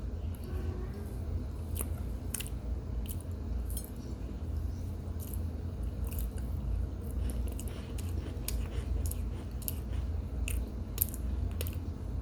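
Close-up chewing of baked cornstarch mixed with baby powder: a run of short, irregular squeaky crackles as the chalky lumps are bitten and ground between the teeth. A steady low hum runs underneath.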